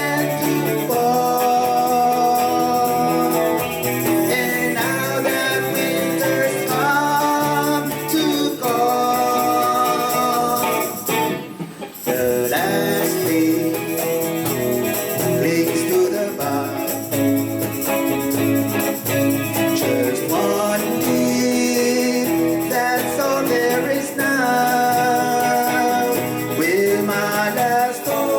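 Live band playing a slow ballad, guitars with a lead melody carrying long held notes that step and slide between pitches; the music thins out briefly about halfway through.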